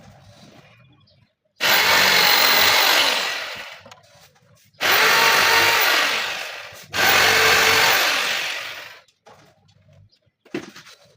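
A power tool run in three bursts of about two seconds each, each starting suddenly and trailing off as it is released.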